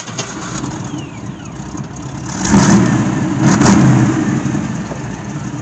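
The lifted truck's carbureted gasoline engine running, revved up briefly twice around the middle and settling back to a steady run. The carburetor is freshly fitted and the timing just set, and by the owner's account it still runs a little rich.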